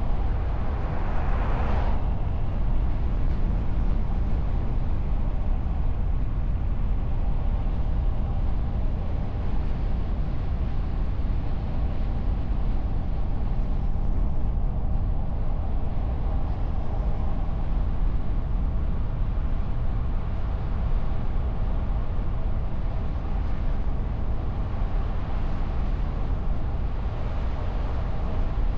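Car driving on the open road, heard from the hood: a steady low rumble of engine, tyres and wind. A brief louder swell of noise about a second in, and a milder one near the end.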